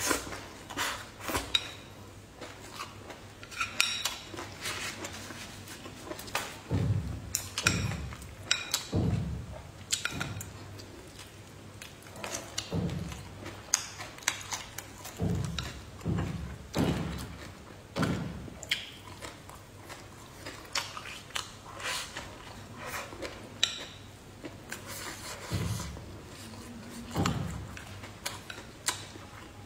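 Close-miked eating sounds: chewing and biting fried fish and lotus root slices, irregular wet clicks and soft low thumps, with chopsticks now and then touching the bowl.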